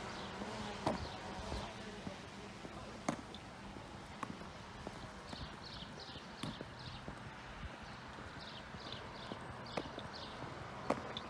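Outdoor ambience: footsteps and scattered knocks on pavement while walking, with a bird calling in short runs of quick high chirps about five seconds in and again near the end.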